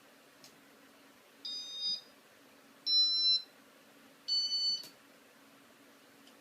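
Three short electronic beeps, each at a slightly different pitch, about a second and a half apart, from the ceiling fan's electronic control as it is operated. A faint click comes before them and a faint steady hum runs underneath.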